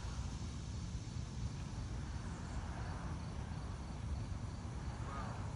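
Steady low outdoor rumble with faint insect chirring over it.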